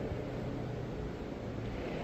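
Engine running at idle through its exhaust muffler, a steady low exhaust note in a lull between revs.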